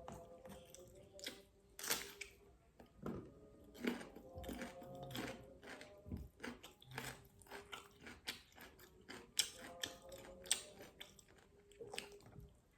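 A person chewing and biting food, with irregular wet mouth clicks and crunches.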